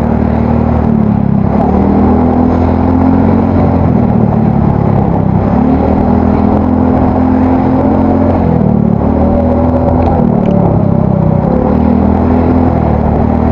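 Yamaha Mio Soul GT single-cylinder four-stroke scooter engine with a bored-out cylinder, running through an aftermarket exhaust while riding. Its exhaust note is deep and mellow rather than tinny, and the revs rise and fall several times with the throttle.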